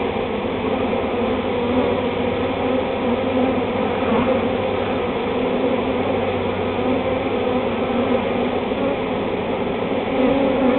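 A honey bee swarm buzzing close by: a loud, steady hum of many wings.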